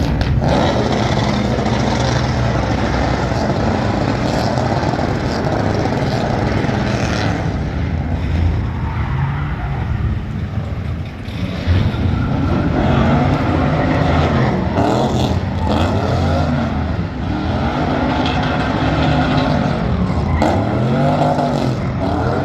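Truck engine running loud, then from about halfway revved up and back down in repeated swells every couple of seconds.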